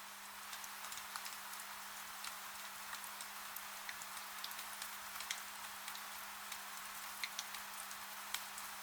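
Steady rain hiss with scattered, irregular sharp crackles of a wood fire, over a faint steady low hum.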